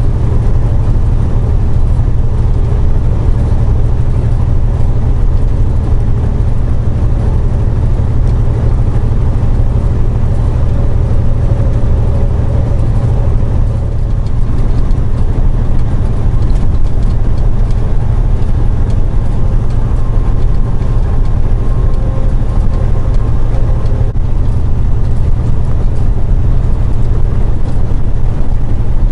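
Steady drone inside a semi truck's cab on the highway: a deep engine rumble under road and wind noise.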